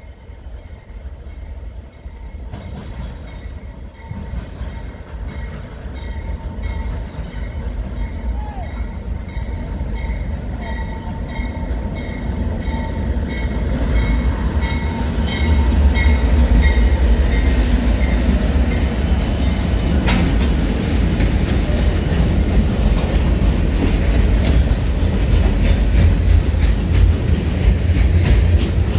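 CN freight train approaching and passing: the diesel locomotives' rumble grows steadily louder for about fifteen seconds. Then the freight cars roll by with a steady rumble and wheels clicking over the rail joints, and a sharp bang partway through.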